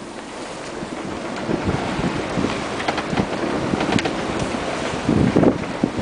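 Strong wind buffeting the microphone in irregular low gusts, over the steady rush of waves and water around a sailboat heeling under sail in about 19 knots of wind. The gusts are loudest about five seconds in.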